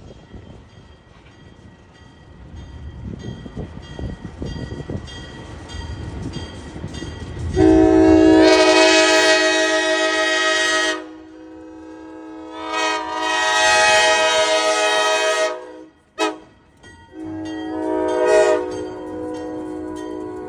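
Durango & Silverton steam locomotive rumbling closer, then blowing its chime whistle in long, long, short, long blasts: the standard grade-crossing signal.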